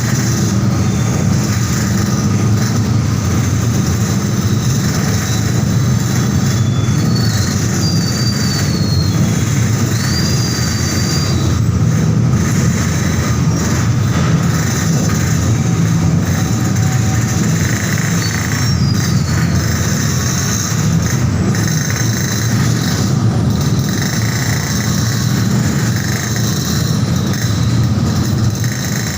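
Steady low engine rumble inside a ro-ro car ferry as it comes in to dock, with a few brief high squeals.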